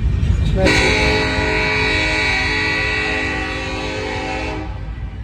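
Locomotive air horn sounding one long chord of about four seconds, starting just under a second in, over the steady rumble of the passing freight train.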